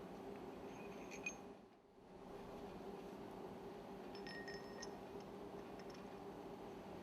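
Faint light metallic clinks, once about a second in and again in the middle, over a steady low workshop hum.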